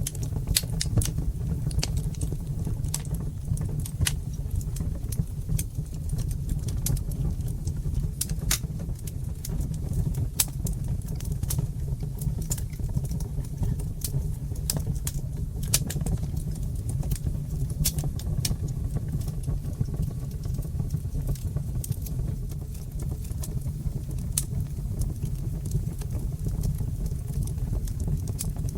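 Fire burning in a fireplace, crackling with frequent sharp, irregular pops over a steady low rumble.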